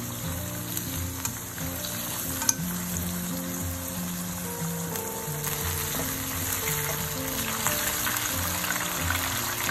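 Beef in turmeric sauce sizzling steadily in a wok as it is stirred with a spatula and spoon, with one sharp utensil clink about two and a half seconds in. Soft background music plays underneath.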